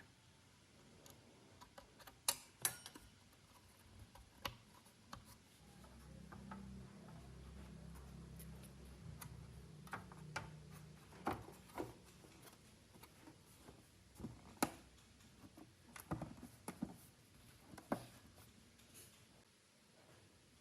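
Scattered light clicks and taps of small hard parts being handled and set down, with a soft low hum for a few seconds in the middle.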